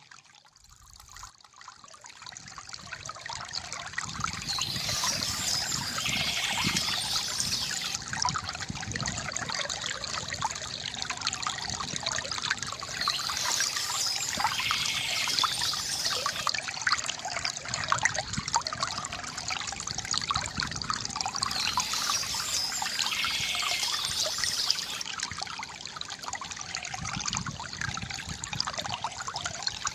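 Water trickling and splashing steadily from a bamboo fountain, rising from quiet over the first few seconds. Bird chirps come back in bursts every several seconds.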